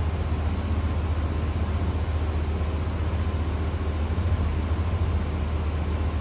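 Fanco Windward 452LA hugger ceiling fan running steadily: a low hum with a rush of moving air.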